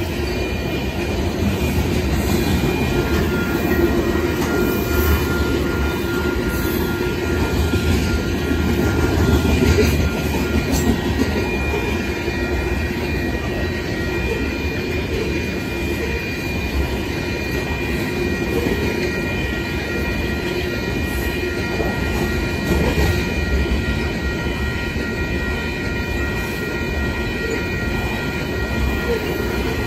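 Freight train of covered hopper cars rolling past at steady speed: a continuous rumble and clatter of steel wheels on the rails, with thin, steady high tones above it.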